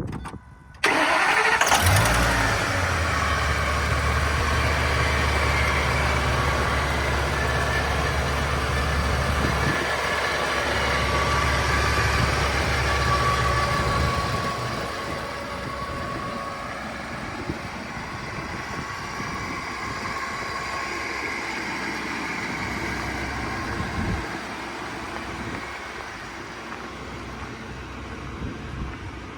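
Ford F450 Super Duty truck engine cranking and catching about a second in, then idling steadily. The idle gets quieter about halfway through, with a brief knock near the end.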